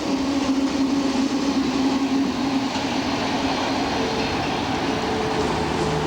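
A train hauled by diesel-electric locomotives passes, its engines and wheels making a loud, steady rumble; the engine tone changes to a higher one about four seconds in.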